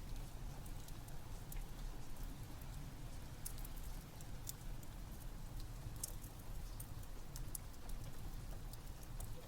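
Steady rain together with a wood fire crackling, with scattered small sharp pops throughout.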